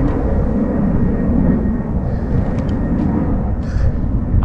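Wind buffeting the microphone: a loud, fluttering low rumble with no steady tone.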